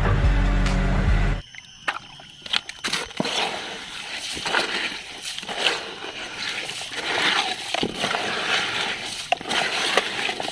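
Water sloshing and splashing with small plastic clicks and knocks as a toy vehicle is washed by hand. A short stretch of music stops about a second and a half in, before the water sounds begin.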